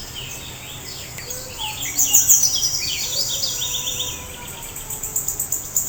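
Birdsong: many quick, high chirps and short falling phrases tumbling over one another, with a fast high-pitched insect-like trill joining about two seconds in.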